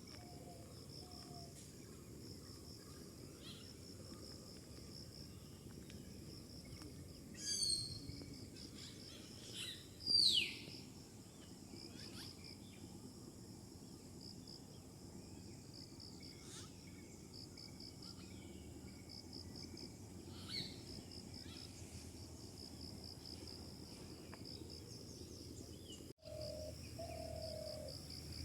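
Wild birds calling over a steady, fast pulsing insect chirr. Two louder calls stand out about eight and ten seconds in, the second a quick falling whistle, with scattered fainter calls around them. Near the end the sound drops out for a moment, and a couple of low notes follow.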